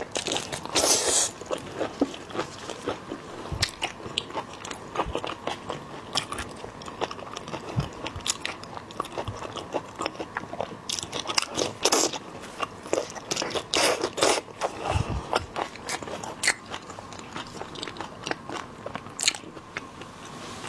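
Close-miked crunching and chewing of shell-on seafood: a run of sharp, crisp cracks of shell between the teeth mixed with wet chewing. The crunches come thickest about a second in, again from about eleven to fifteen seconds, and once more near the end.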